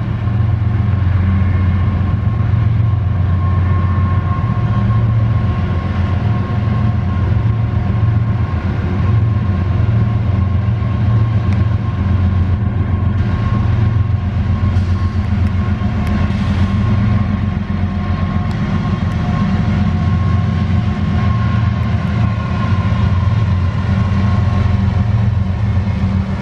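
Union Pacific freight train led by GE diesel-electric locomotives (lead unit an AC45CCTE) approaching and running past, its engines making a steady, loud low rumble.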